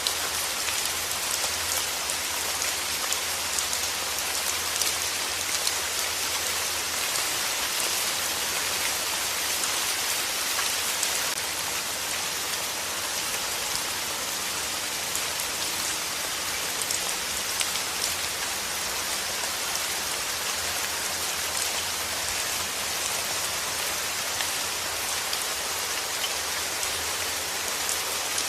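Steady rain falling, a dense even hiss with many small drop patters on a surface.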